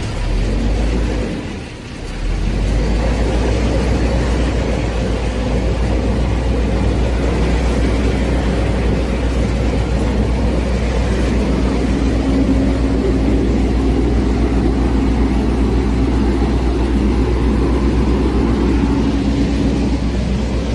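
Semi-truck engine running steadily with a deep rumble, dropping briefly about two seconds in and then picking up again.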